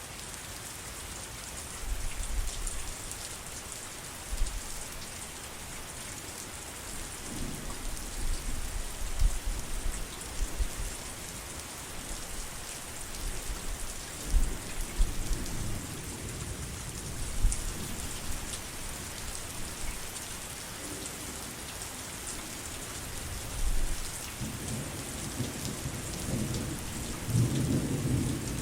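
Steady heavy rain hissing, with low rolls of thunder coming and going several times and the strongest, longest rumble near the end.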